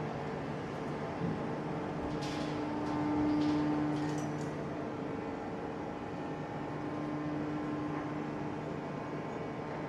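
Hydraulic forging press plant running with a steady, multi-pitched hum that swells briefly about three seconds in, with a few short hisses around the same time.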